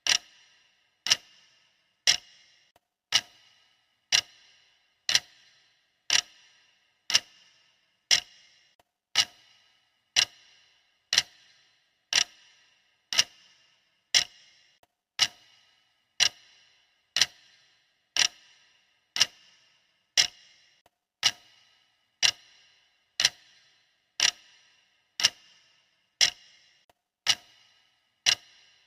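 Clock ticking steadily, about once a second, each tick a sharp click with a short ring.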